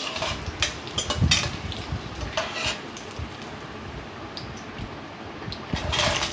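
A metal spoon scraping and clinking in a kadai as dried red chillies fry in sesame oil, with a low sizzle. The strokes come several times in the first half, and the frying gets louder again near the end.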